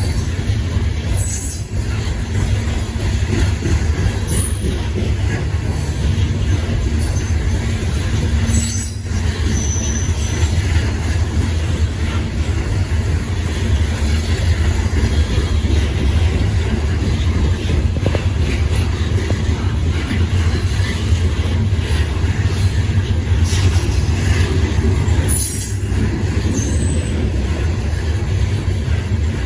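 Freight train cars rolling past steadily with a heavy low rumble, wheel clicks and brief high-pitched wheel squeals now and then.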